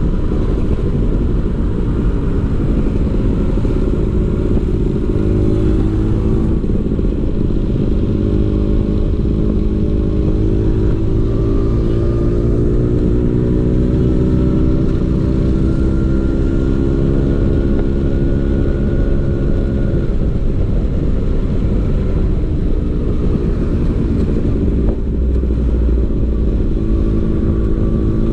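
Vespa PX 150's single-cylinder two-stroke engine running through a DRC Victory Racing exhaust, steady and loud, its pitch rising and falling gently with the throttle.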